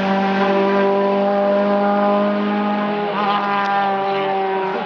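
Race car engine running hard at high revs with a steady, slowly sagging pitch, which wavers briefly about three seconds in.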